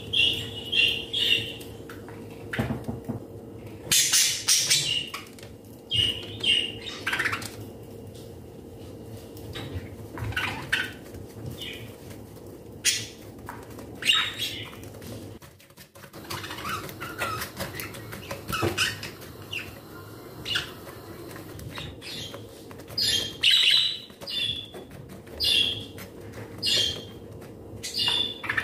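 A bird chirping repeatedly in short clusters of calls, with a whisk beating egg and sugar batter in a glass bowl underneath.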